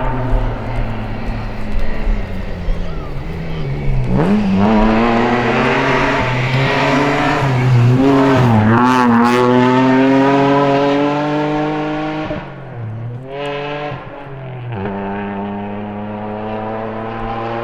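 Rally car engine under hard acceleration, its pitch climbing steadily after a dip about four seconds in. It falls away about twelve seconds in and returns as a steadier drone near the end.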